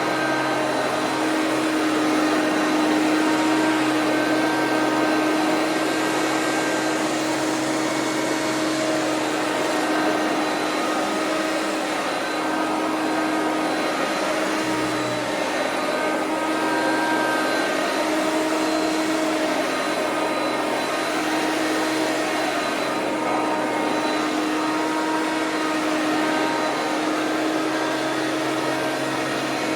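Hoover PowerMax self-propelled bagged upright vacuum cleaner running steadily: a constant motor hum and whine over an airflow hiss, its pitch wavering slightly as it is pushed.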